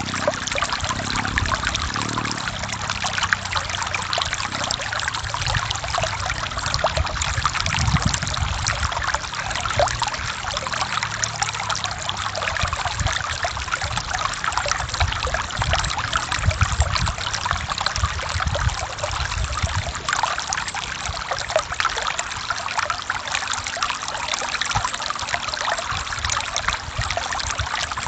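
Forest stream flowing steadily over rocks, a dense trickling and splashing with a soft low rumble underneath.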